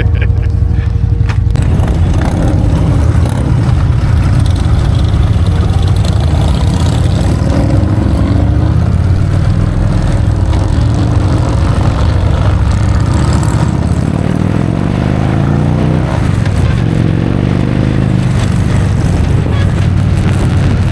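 Motorcycle engines running loud and steady, with the pitch rising and falling in places as the throttle is worked.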